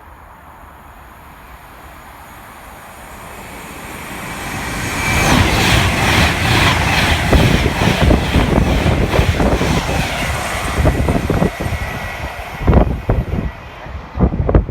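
A train running through the station at speed. Its noise builds over a couple of seconds, then there is a loud, dense clatter of wheels over the rail joints for about six seconds. Uneven thumps follow as it goes by.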